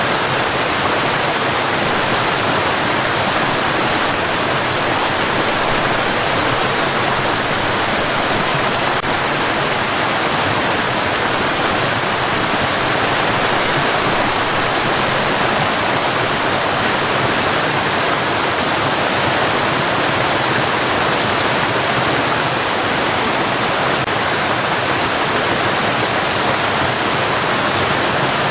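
Steady, even rushing hiss of white noise, unchanging in level, with no pitch, rhythm or separate events.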